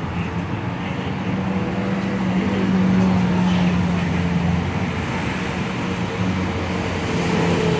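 Rush-hour street traffic: a nearby vehicle engine running with a steady low hum, louder from about two seconds in, over a constant wash of traffic noise.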